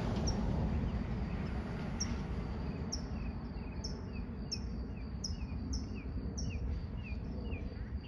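A bird calling with short, falling chirps. They are sparse at first and become a regular series of about two a second from about three seconds in. Under them runs a steady low outdoor rumble and a faint, steady high whine.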